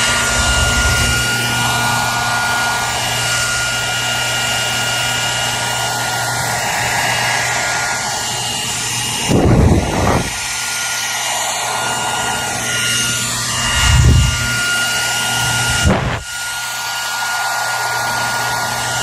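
Hair dryer running steadily, a rushing blow with a high whine and a low hum. A few brief louder whooshes break in, about halfway through, a little later, and near the end.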